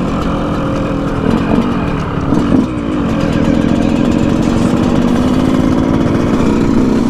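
Dirt bike engines running, with a couple of short revs in the first few seconds and then a steady idle.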